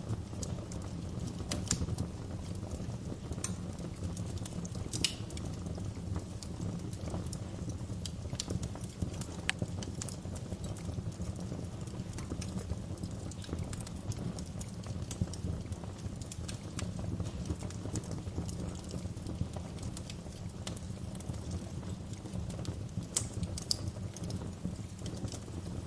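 Wood fire in a fireplace crackling, with a steady low rumble of the flames and frequent sharp pops and snaps scattered irregularly throughout.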